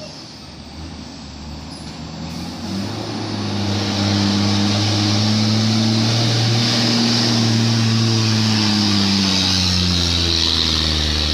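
A loaded dump truck's diesel engine pulling under a heavy load. It grows louder over the first four seconds as it nears, then holds a steady low drone with a hiss above it.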